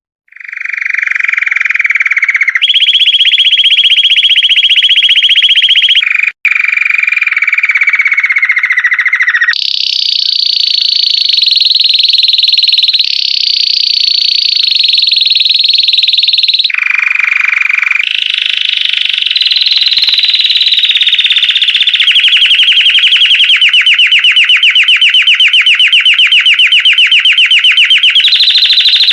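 Domestic canary singing a long, continuous song of rapid trills. Each roll is held a few seconds before jumping to a new pitch and rhythm, with a brief break about six seconds in.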